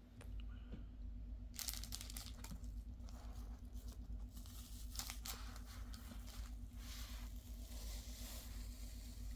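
Faint, irregular rustling and crinkling of wrapping being handled, starting about a second and a half in, over a steady low hum.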